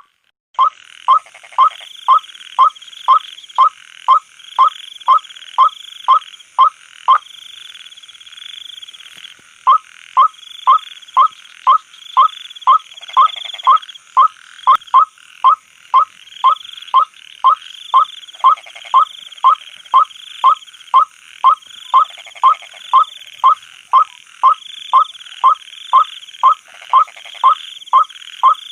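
White-breasted waterhen calls: short croaking notes repeated steadily about two a second, with a break of about two seconds partway through, over a steady high chorus of night insects.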